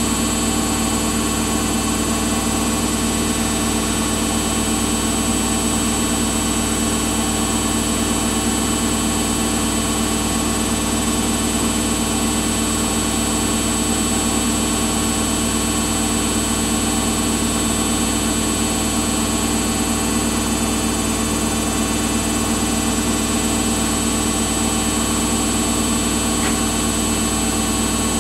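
Samsung washing machine running steadily, a constant hum and whine with no change in level or pitch.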